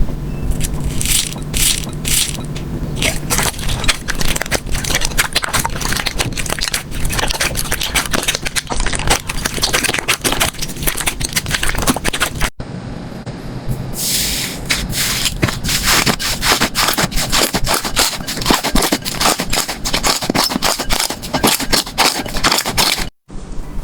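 Slime being squeezed and pressed by hand, with dense crackling, popping and sticky clicking. A cut about halfway brings a second clip with crisper, brighter crackles.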